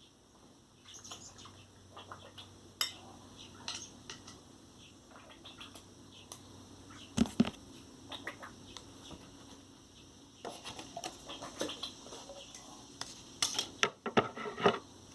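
Irregular clicks and taps of chopsticks on a dish while a rescued robin is hand-fed, coming in clusters, with the sharpest taps about halfway through and near the end.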